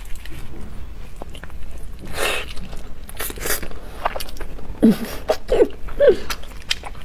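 Chewing and wet mouth sounds of eating braised meat, with scattered clicks. There is also tearing and rustling as plastic-gloved hands pull the meat apart.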